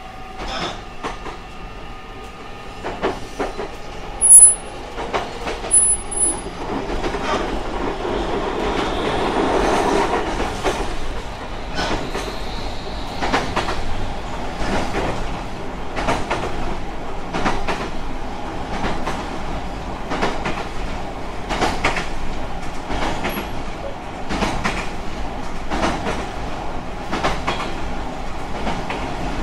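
JR Kyushu 817 series electric train running, a steady rumble with rail-joint clicks in a regular clickety-clack rhythm from about halfway. A sharp knock about four seconds in is the loudest sound.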